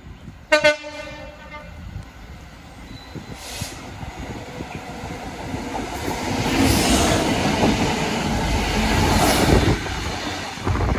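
A train gives one short horn blast about half a second in, then passes, its rumble and wheel noise building to loudest in the second half.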